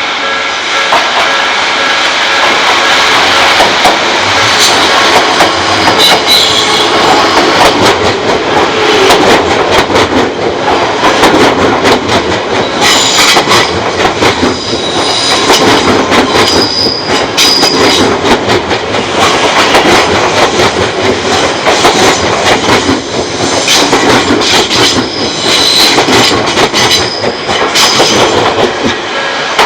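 An Odakyu Odawara Line train passes over the level crossing, its wheels clicking rapidly over rail joints the whole way through. Its wheels squeal on and off in short high-pitched bursts. A level-crossing warning bell rings steadily underneath.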